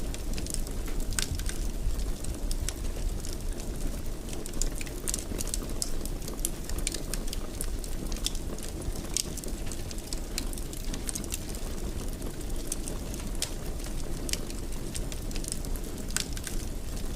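Wood fire burning in a fireplace: frequent, irregular sharp crackles and pops over a steady low noise of the burning.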